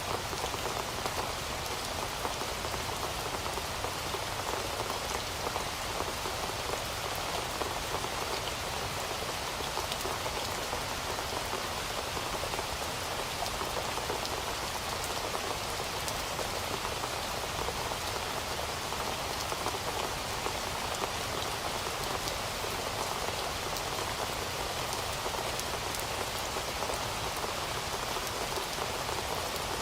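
Heavy rain falling steadily, a dense even hiss of drops with fine patter throughout.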